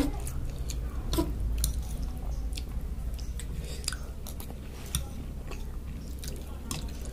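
A person chewing a mouthful of Maggi instant noodles close to the microphone, with many short, sharp wet clicks scattered throughout. A low steady hum runs underneath.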